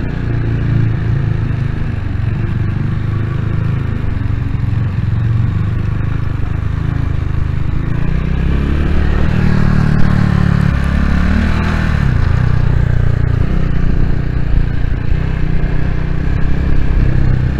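Vitacci GTX 250 EFI motorcycle's fuel-injected 250 cc engine running loud under way, its note rising and falling with the throttle. Around eleven seconds in the engine note dips and then climbs again.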